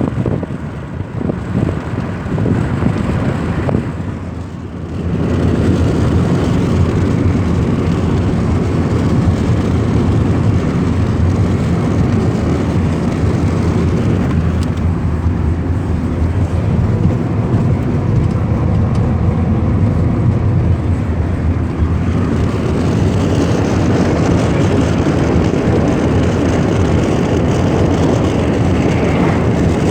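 Lada Kalina 2 wagon driving along the road: steady engine, tyre and wind noise, which dips briefly and then grows louder about five seconds in.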